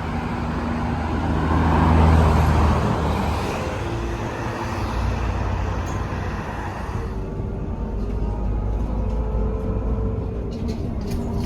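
City bus engine running with a low rumble, swelling to its loudest about two seconds in, then settling to a steady drone.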